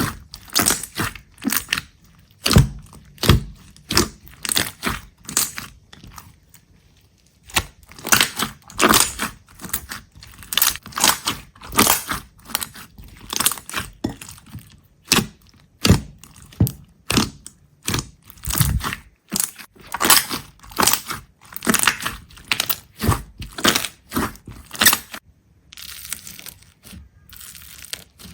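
Crisp crunching and crackling as something brittle is crushed or cut, a few sharp crunches a second. There is a brief pause about six to seven seconds in, and lighter crinkling near the end.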